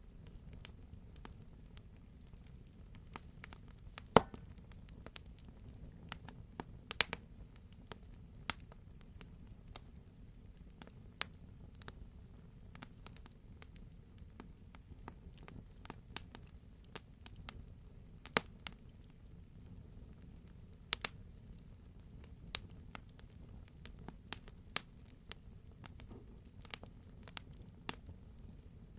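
Wood campfire crackling: scattered sharp pops at irregular intervals over a low, steady rumble, with the loudest pop about four seconds in.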